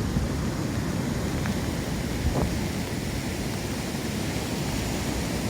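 Rough sea surf breaking and washing on the beach in a steady rush, with wind rumbling on the microphone.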